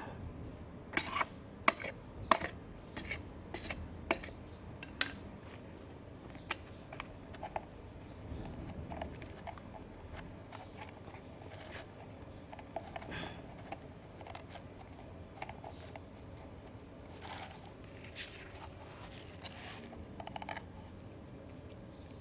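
Handling sounds as a new oil bottle's seal is broken open: a run of sharp clicks or snips at about two a second in the first five seconds, then softer scattered taps and rubbing.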